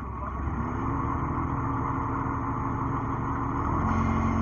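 Heavy diesel engine revving up under load about half a second in and running hard, pitch stepping higher near the end before easing off.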